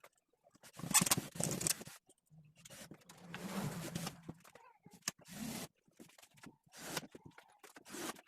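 Intermittent scraping and rustling handling sounds in a bursts-and-pauses pattern, with one sharp click about five seconds in.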